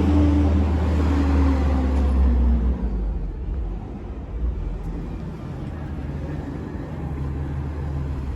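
Garbage truck engine revving high, its pitch falling away over the first couple of seconds, then dropping about three seconds in to a lower, quieter running, and picking up slightly near the end.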